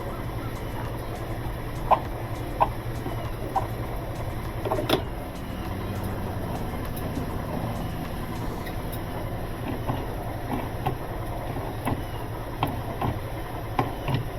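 Scattered metallic clinks and taps of hand tools and washer parts during reassembly of a direct-drive top-load washer, over a steady low machine hum.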